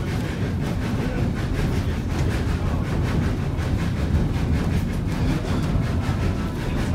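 A narrow-gauge train under way on a heavy uphill pull, hauled by a 1926 Baldwin 2-8-0 steam locomotive: a steady, loud low rumble with a quick regular beat running through it.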